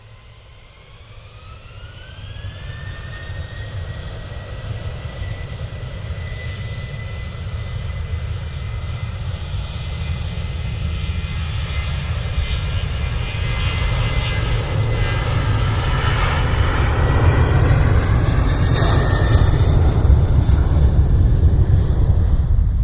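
Airliner's jet engines spooling up: a whine rises over the first few seconds and then holds steady, while a deep rumble and roar build louder and louder, as at full power for takeoff.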